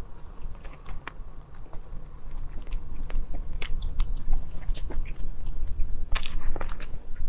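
Close-miked biting and chewing of a baked pastry filled with peanuts and sugar, with many sharp crackles and crunches of the crust, clustered twice.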